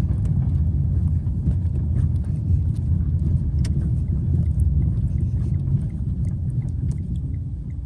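Steady low road and engine rumble of a moving car, heard from inside the cabin, with a few faint ticks.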